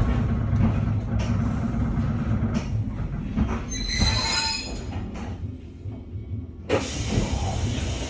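Nankai 2200-series train car heard from inside, with a steady low running rumble. About four seconds in there is a brief high-pitched squeal of wheels or brakes, and near the end comes a sudden rush of noise.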